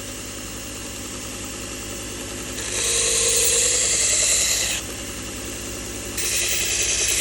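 Toolcker 1x30 belt grinder running slow with a Cubitron 120 abrasive belt, its motor humming steadily. Twice a knife blade is laid lightly against the slack belt and ground with a loud hiss: once about three seconds in for about two seconds, and again from about six seconds in, sharpening the edge.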